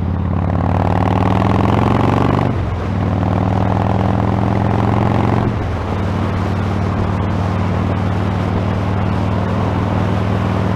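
Motorcycle engine accelerating through the gears, its pitch rising and then dropping at two upshifts about two and a half and five and a half seconds in, then running steady. Wind noise over the microphone throughout.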